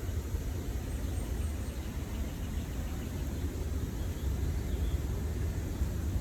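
Steady, low outdoor background rumble, with a few faint high chirps about a second in and again near five seconds.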